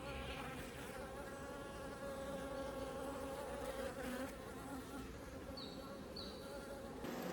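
Honeybees buzzing around an open hive: a steady, slightly wavering hum of many bees.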